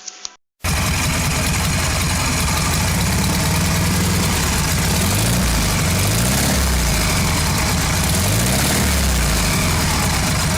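Air-cooled Volkswagen Beetle (Fusca) flat-four engine idling loudly, cutting in suddenly about half a second in. Its note wavers up and down twice, in the middle and near the end.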